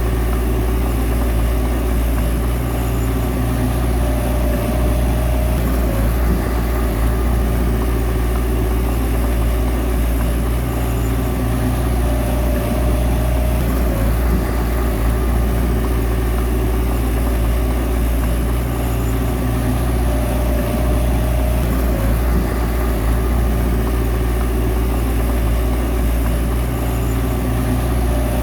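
Bulldozer diesel engine running steadily with a deep hum, with a higher whine that comes and goes about every eight seconds.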